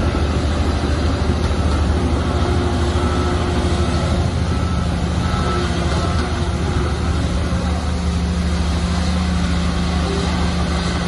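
Heavy diesel earthmoving machinery running steadily under load, with a deep, even engine hum.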